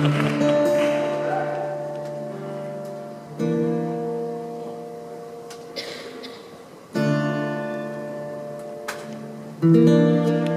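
Slow instrumental introduction to a song: four chords, one struck about every three seconds, each left to ring and fade.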